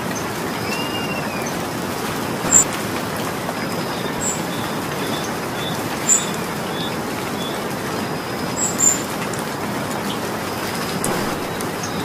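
Steady rain falling, with birds chirping through it: a few short, high chirps stand out about two and a half, six and nine seconds in.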